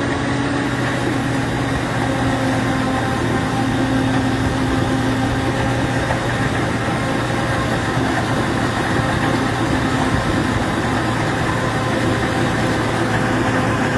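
Large diesel farm machine engine running steadily at a constant speed, an even mechanical hum with no revving.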